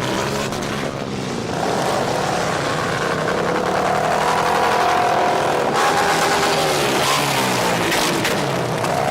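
A car engine running and being revved, its pitch rising and falling slowly over several seconds.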